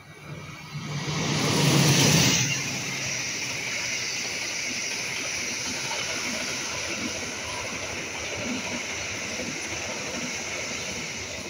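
Argo Bromo Anggrek passenger train passing close at speed: the diesel locomotive goes by with a loud rising rush and engine rumble about two seconds in, followed by the steady rumble and rush of the carriages' wheels on the rails.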